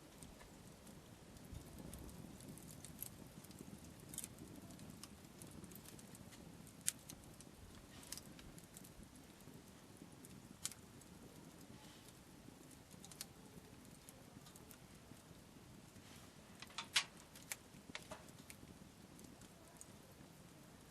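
Faint wood campfire crackling: irregular sharp pops and snaps of burning wood over a soft low hiss, with a small burst of louder snaps near the end.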